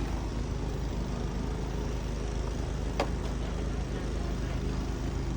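An engine running steadily with a low, even hum, and a single sharp click about three seconds in.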